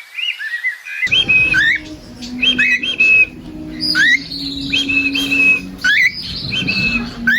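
A parrot whistling short repeated phrases: a quick rising whistle followed by level notes, about once a second.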